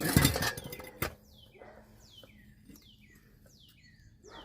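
A loud scraping, clattering rush as the truck's wheel hub assembly is worked loose and pulled free, ending in one sharp metal knock about a second in. After that a small bird chirps over and over in short falling notes, about two a second.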